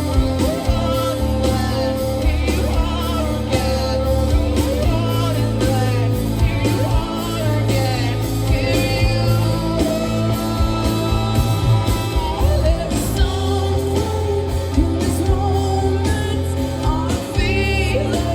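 Rock band playing live: electric guitars, bass and drums, with a woman singing the lead vocal.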